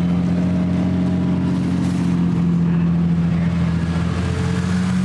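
Car engine idling steadily while warming up, a constant low drone that holds one pitch.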